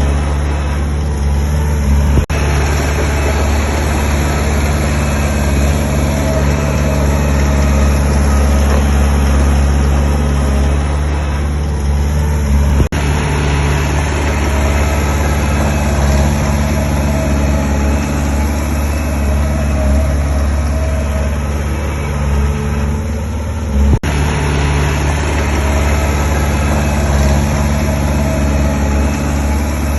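Heavy diesel engine of construction machinery running steadily, a low drone with a mechanical clatter over it, broken by a brief click three times.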